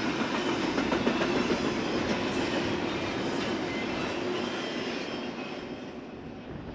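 Freight train cars rolling past on the rails, wheels clicking over the rail joints, the sound fading away over the last couple of seconds as the train moves off.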